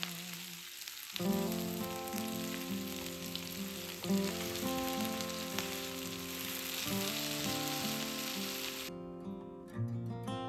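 Food sizzling as it fries in a pan, a steady hiss that cuts off suddenly near the end, under background music.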